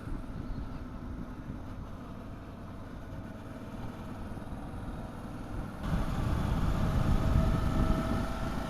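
Motorcycle engine running on the road. It is quieter at first, then louder from about six seconds in with a heavier low rumble, and the engine note rises slightly near the end as it picks up speed.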